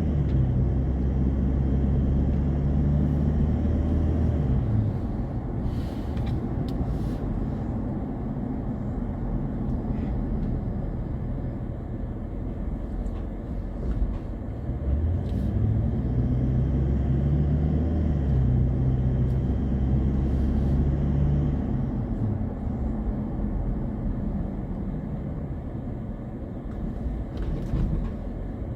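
Car being driven: a low engine hum over steady road noise. The engine note drops away about five seconds in and builds up again around fifteen seconds in.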